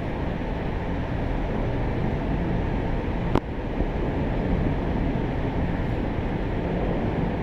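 Steady low rumble of a Boeing 777-200ER's jet engines, with one sharp click about three and a half seconds in.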